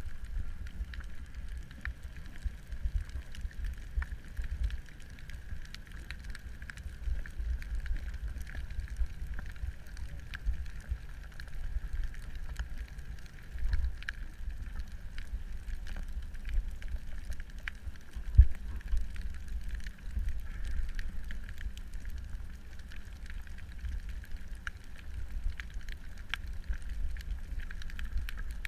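Underwater ambience picked up by a camera: a fluctuating low rumble with scattered crackling clicks and one louder knock partway through.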